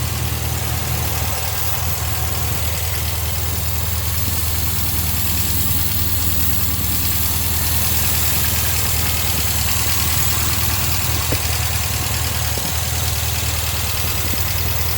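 1972 MGB's 1.8-litre B-series four-cylinder engine idling steadily.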